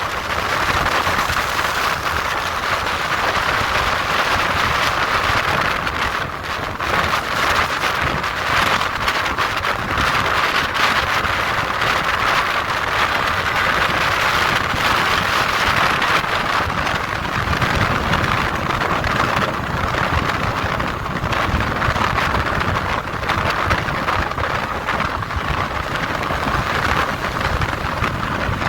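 Steady rush of wind over the microphone with the road and engine noise of a moving motorcycle.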